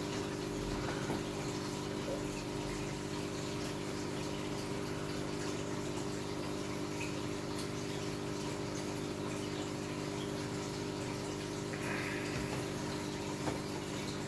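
Aquarium filtration running: a steady pump hum with a constant rush of moving water.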